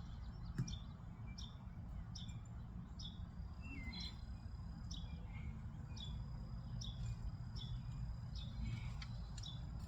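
A bird chirping over and over, short high notes that drop in pitch, about one and a half a second, over a steady low rumble.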